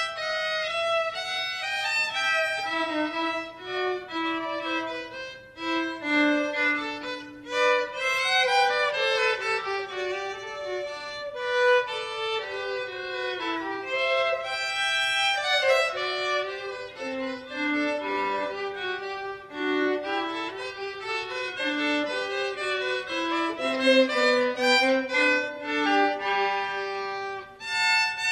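Violin and viola duet playing a classical piece: two bowed lines, a higher melody over a lower part, moving note by note without a break.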